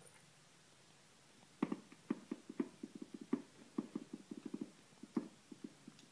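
A quick, irregular run of soft taps and thumps, starting about a second and a half in and going on for some four seconds.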